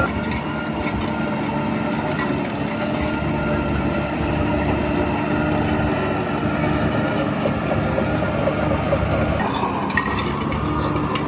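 Heavy diesel engine of earthmoving machinery running steadily at an even speed.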